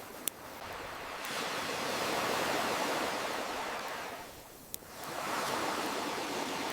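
Ocean waves washing in two slow surges, fading between them, with a campfire crackling: two sharp pops, one just after the start and one a little past the middle.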